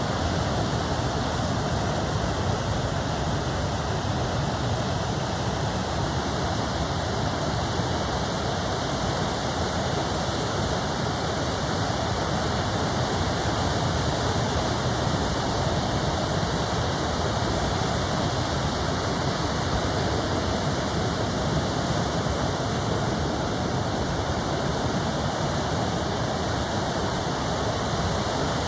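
Steady roar of ocean surf breaking, a constant rushing noise without distinct separate wave crashes.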